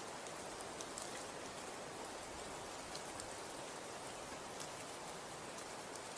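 Snow falling and pattering steadily on surfaces, a soft even hiss with scattered light ticks.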